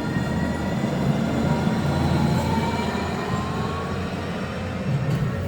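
Class 222 Meridian diesel-electric multiple unit running on its underfloor diesel engines, a steady low drone with whines that rise slowly in pitch as it accelerates.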